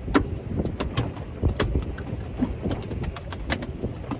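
A freshly caught tailor flapping and thumping in the boat: a run of sharp, irregular knocks and slaps, about seven of them, over low wind and water rumble.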